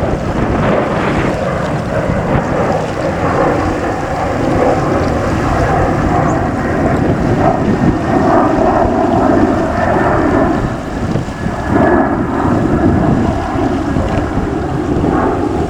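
Boeing 737-900's twin CFM56-7B turbofan engines at takeoff thrust, a loud steady roar, with wind buffeting the microphone.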